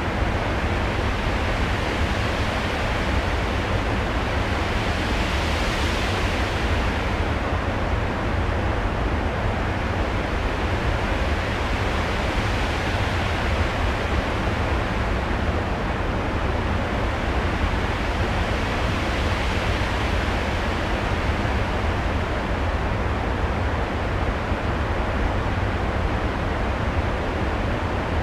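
A steady rushing noise soundscape with a deep rumble underneath, like a storm. Its upper range swells and eases about every seven seconds, like waves.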